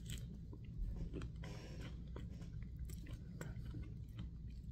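A person biting into and chewing a battered fried shrimp, with faint crisp clicks of the batter crunching.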